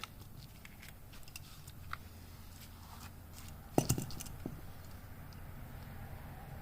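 Parts of a failed differential being handled by hand: scattered light metal clicks and taps, with one louder knock a little past halfway.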